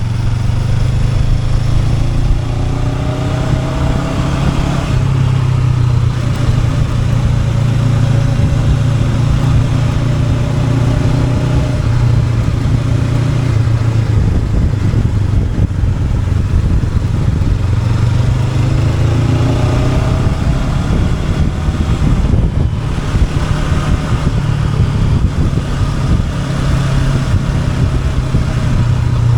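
Honda NX500's parallel-twin engine running while the motorcycle is ridden, heard from on the bike. Its pitch climbs twice as it accelerates, once early and again about two-thirds of the way through, with a brief drop just after the second climb.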